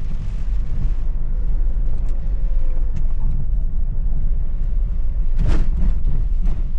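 Van engine running with a steady low road rumble inside the cabin as it drives, with a brief rush of noise about five and a half seconds in.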